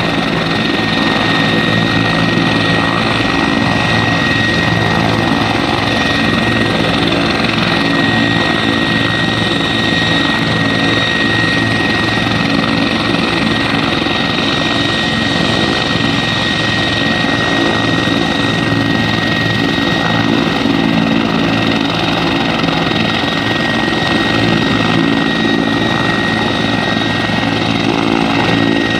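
Helicopter running loud and steady: dense rotor noise with a steady high-pitched whine over it.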